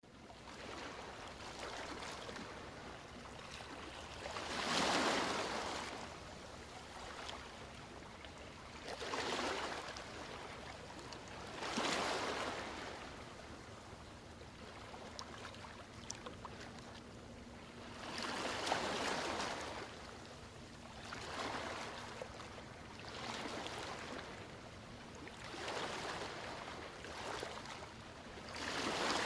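Ocean waves surging in one after another: about eight swells of rushing noise that rise and fade at uneven gaps of a few seconds, over a steady hiss of surf.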